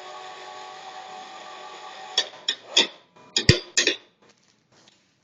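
Pipe-bending machine running with a steady hum that stops about two seconds in, followed by a quick series of sharp knocks and clanks.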